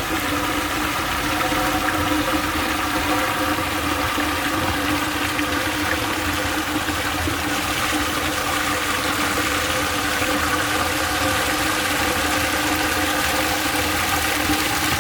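Water running steadily through a miniature model dam, with a steady mechanical hum from a small motor under it.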